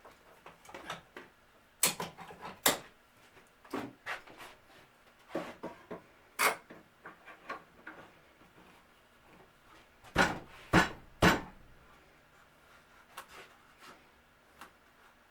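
Scattered knocks and clunks of wooden cabinet pieces and clamps being handled and set in place, with three loud knocks in quick succession about ten seconds in.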